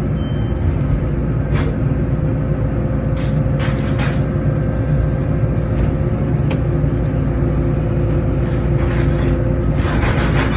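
Excavator's diesel engine running steadily, with scattered sharp knocks and a cluster of clatter near the end as concrete debris is broken and moved.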